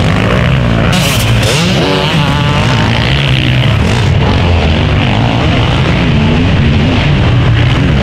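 Several motocross bikes running on the track together, engines revving up and down in overlapping rising and falling pitches, one bike revving hard about two seconds in.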